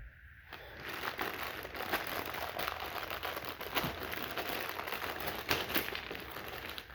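Packaging crinkling and rustling as toy train pieces are handled and unpacked, dense with small clicks, starting about half a second in.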